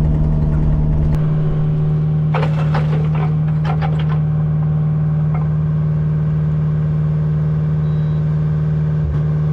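Kubota U55 mini excavator's diesel engine running steadily as the machine travels, its deepest rumble easing about a second in. A few short clatters come between about two and four seconds in.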